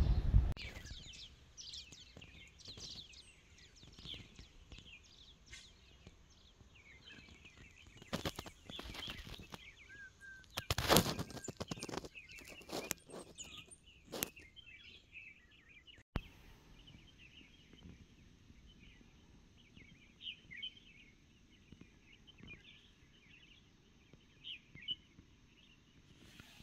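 Small birds chirping and twittering on and off, with a few louder knocks or rustles in the middle.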